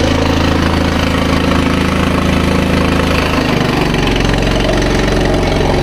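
An engine idling steadily, its low note shifting slightly about three and a half seconds in.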